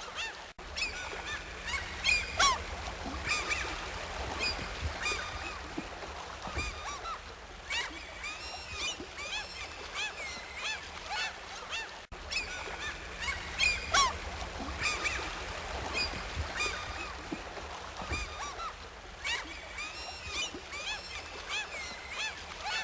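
A flock of birds calling: many short, arching calls overlapping one another, over a steady low hum. The sound briefly cuts out about half a second in and again about twelve seconds in.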